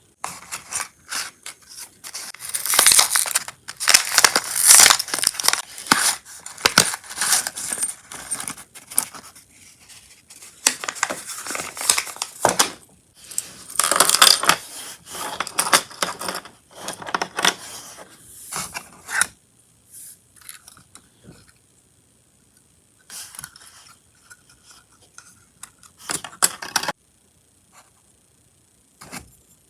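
Paper or plastic packaging being handled and torn in irregular bursts of rustling, thinning out to a few short bursts with quiet gaps in the last third.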